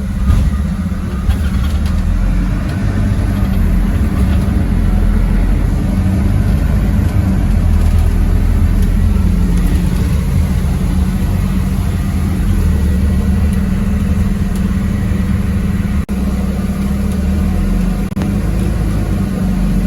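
MAZ-206 city bus driving, heard from inside the passenger cabin: a steady low engine drone with road noise, briefly dipping twice near the end.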